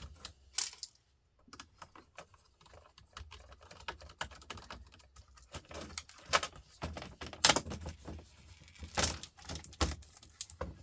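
Fujitsu Siemens laptop's hard plastic parts and small metal screws being handled and pried apart, making irregular clicking and rattling. Several sharper knocks stand out, the loudest about two-thirds of the way in.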